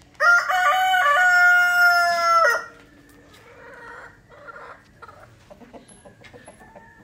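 A rooster crowing once, one long call of about two and a half seconds near the start, followed by faint scattered sounds.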